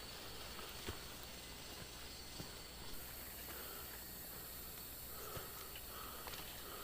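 Faint rainforest ambience: a steady high buzz and hiss with a few scattered clicks. From about halfway, a short call repeats about twice a second.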